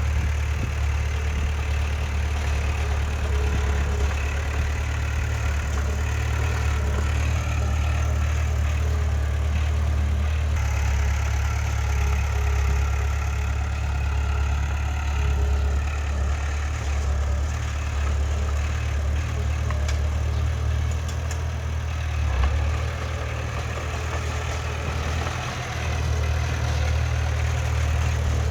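Diesel engine of heavy earthmoving machinery running steadily with a deep, low rumble, dropping briefly in level near the end.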